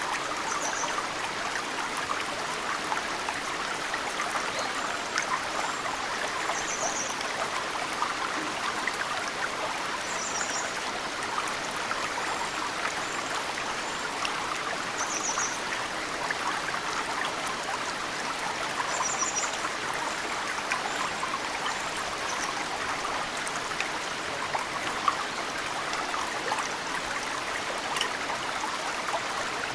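Mountain stream running steadily, with snowmelt water dripping into it in small ticks. A small bird gives short, high chirps every few seconds over the water sound.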